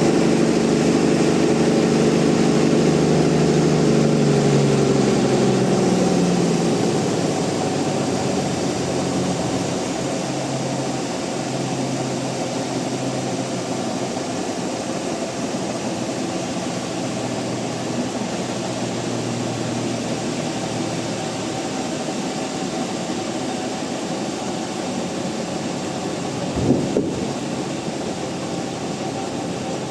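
Sawmill machinery running with a strong drone that winds down in pitch over a few seconds, then settles into a steadier, quieter hum; a single sharp knock near the end.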